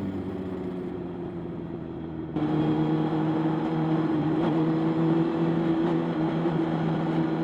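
Motorcycle engine running at a steady speed. About two seconds in, the sound abruptly becomes louder and brighter.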